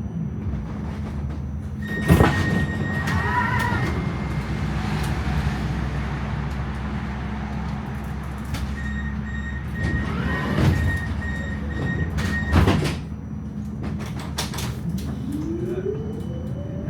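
Tram stopped at a stop with its doors cycling: a thud as the doors open about two seconds in, with a steady tone, then a few seconds of beeping warning tone before the doors shut with a thud. Near the end the traction motors whine, rising in pitch as the tram pulls away.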